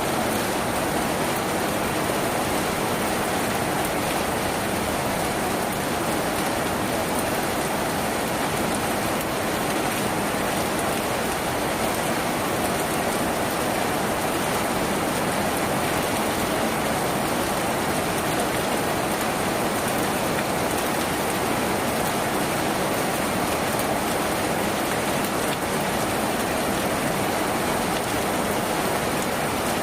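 Steady rain drumming on a tin roof, a dense even patter with no pauses or swells.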